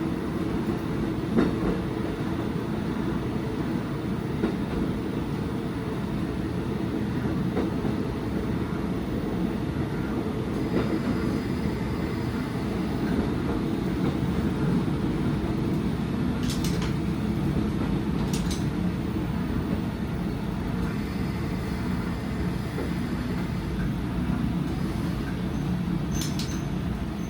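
Diesel railcar running along the line, heard from inside at the front of the car: a steady low rumble of engine and wheels on the rails, with a few sharp clicks in the second half.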